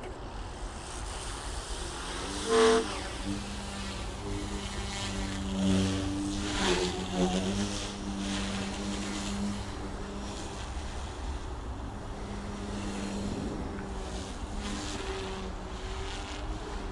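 Goosky S1 collective-pitch RC micro helicopter running, its rotor and motor hum holding a fairly steady pitch that rises and dips briefly a few seconds in. A short, loud sound comes about two and a half seconds in.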